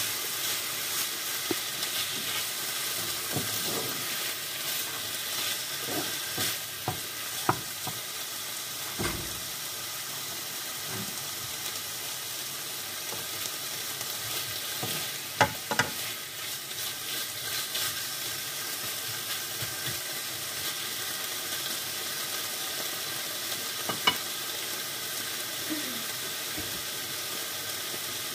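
Chicken breast pieces and sliced onion sizzling as they fry in a non-stick pan, stirred with a wooden spatula that knocks against the pan now and then.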